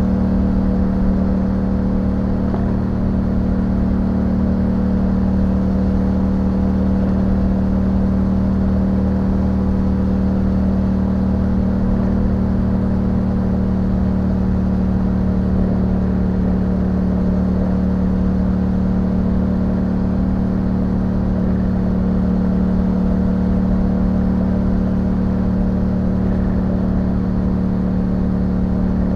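2021 Yamaha MT-07's parallel-twin engine running through an Akrapovic exhaust with dB killer, held at a steady engine speed while riding.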